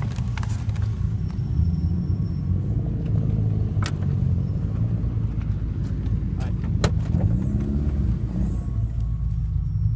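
A low rumble with two sharp clicks, about four and seven seconds in, under a faint thin high-pitched whine from an Alpine MRX-F65 car amplifier. The whine comes and goes early on and holds steady near the end. It is noise from the amp itself, present with the volume at zero.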